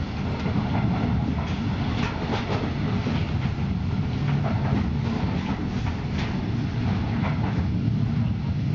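Passenger train running at speed, heard from inside the carriage: a steady low rumble with scattered clacks and rattles.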